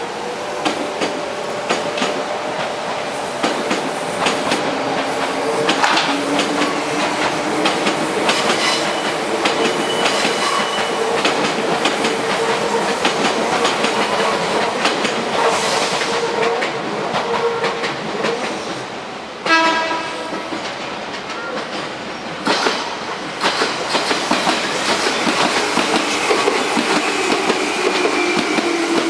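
Trains running through a level crossing, wheels clacking over the rail joints. A short, sharp train horn blast sounds a little past two-thirds of the way through.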